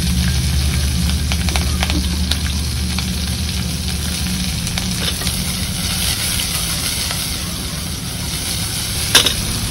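Chopped green chillies sizzling steadily in hot oil in a frying pan on a gas stove. The pan is stirred and tossed, with small ticks, and there is one sharp knock near the end.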